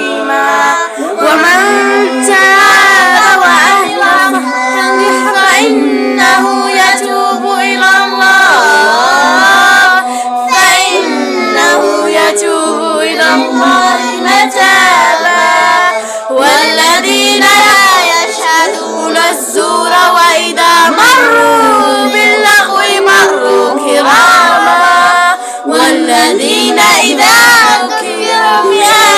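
Young voices singing a song together as a group, with several sung lines heard at once.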